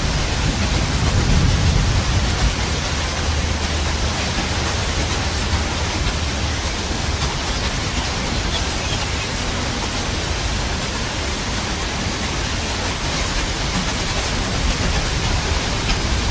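Steady heavy rain, a dense even hiss with a low rumble underneath that swells slightly in the first couple of seconds, as in a rain-and-thunder white-noise track.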